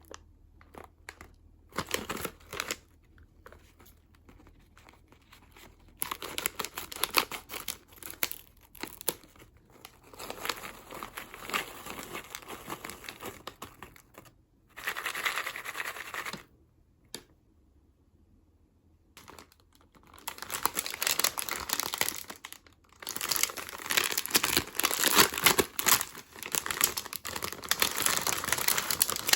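Plastic snack wrappers crinkling and tearing as packets are opened, in irregular bursts with short pauses, densest near the end.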